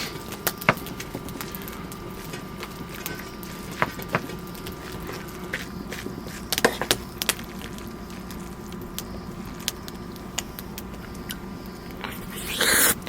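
Scattered light clicks and knocks of chopsticks and tableware during a meal, over a steady background hum, with a louder noisy burst near the end.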